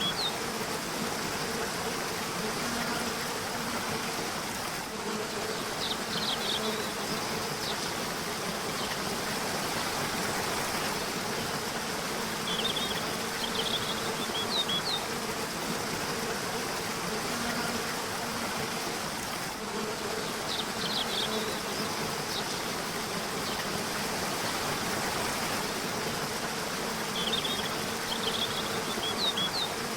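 A river or waterfall running steadily, with a songbird singing short chirping phrases about every seven seconds and a low steady buzz underneath.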